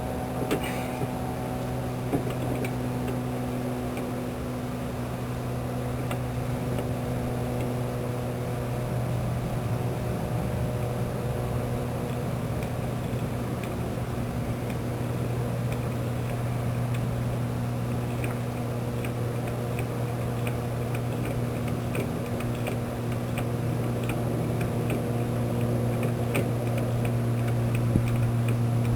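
Electric landing-gear motor of a fifth-wheel trailer running steadily, turning the jackscrew to move the front landing-gear legs while grease is worked up the threads. A steady hum with faint ticking.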